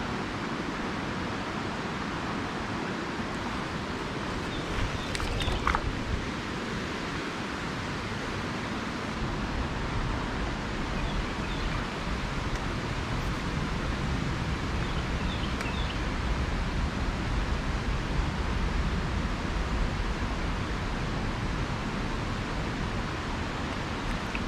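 Small creek water running steadily, with a few faint clicks about five seconds in and a low rumble building after about nine seconds.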